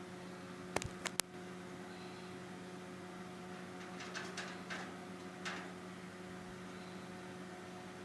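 Steady electrical hum, with three sharp clicks about a second in and a few soft rustles around the middle.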